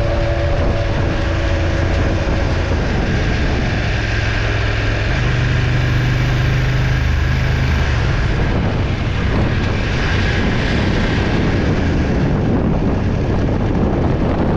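Motorcycle under way: a steady engine drone under a heavy, constant rush of wind. The engine note steps up about five seconds in and settles again around eight seconds.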